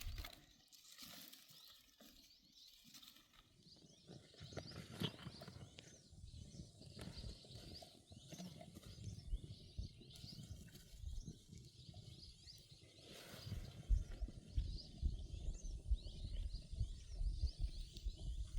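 Outdoor ambience of many small high chirps, from birds or insects, going on throughout. Beneath them are low rumbling thumps and bumps that grow busier and louder over the last few seconds.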